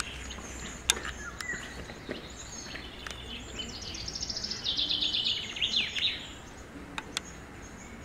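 A songbird singing a fast trill of rapidly repeated high notes that steps down in pitch, starting a little before the middle and lasting about two and a half seconds, over steady outdoor background noise. A few sharp clicks, the loudest about a second in.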